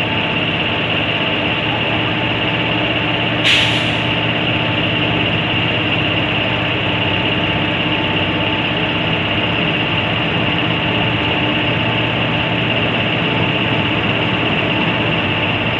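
Indian Railways express passenger coaches rolling slowly past on the track: a steady rumble and hum of wheels and running gear. A short, sharp burst of hiss cuts in about three and a half seconds in.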